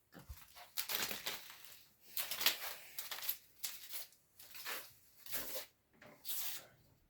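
A series of short crinkling, rustling noises, roughly one a second.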